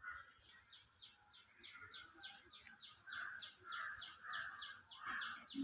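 Faint bird calls: a rapid, even series of short high chirps, about five a second, over softer lower notes.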